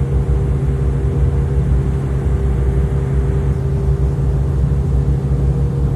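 River ferry's engine running steadily, a constant low drone with a fainter steady higher tone above it.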